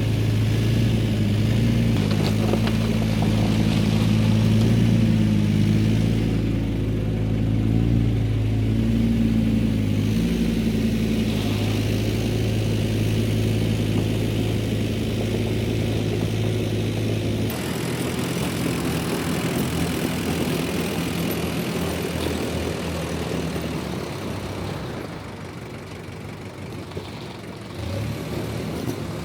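Tractor engine running steadily. About two-thirds of the way through the sound changes abruptly to a rougher, noisier running sound that fades somewhat near the end.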